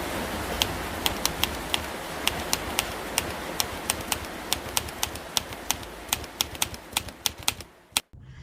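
Steady hiss with many sharp, irregular clicks, several a second; it fades and stops abruptly about eight seconds in.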